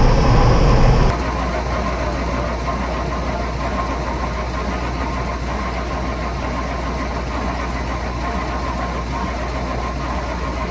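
Starter cranking the cold old Cummins diesel in the dump truck without it firing, with a high whine over the low churn. The cranking cuts off suddenly about a second in, leaving a steady low engine-like rumble.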